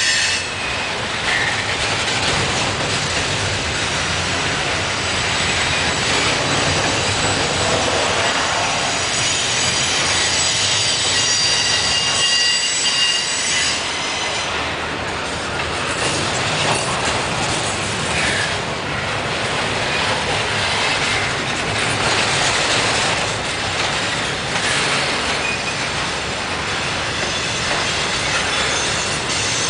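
Slow-moving freight train rolling past, its steel wheels squealing in high thin tones over a steady rumble of cars on the rails.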